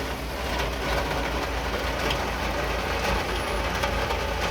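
Heavy rain falling: a steady hiss over a continuous low rumble.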